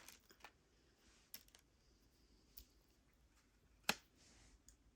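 Near silence with a few faint, scattered clicks of jewelry pieces being handled, and one sharper click a little under four seconds in.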